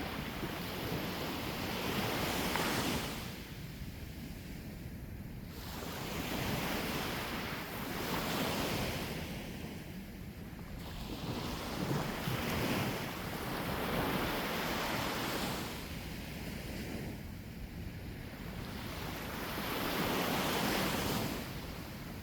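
Sea waves breaking and washing on the shore, surging and fading every few seconds, with wind rumbling on the microphone.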